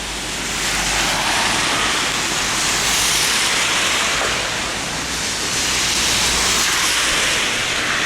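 Floodwater rushing down a road, a loud hissing rush of water that swells twice.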